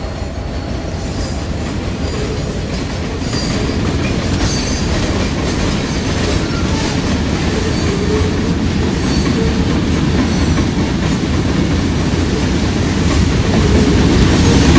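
Train's rail cars rolling past: a steady rumble with clicks of wheels over rail joints and brief faint wheel squeals, growing louder toward the end.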